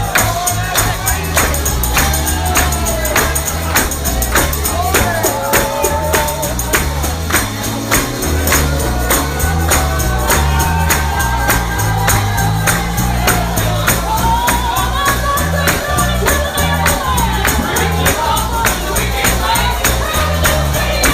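Live gospel singing with a tambourine keeping a steady beat and a bass line stepping underneath.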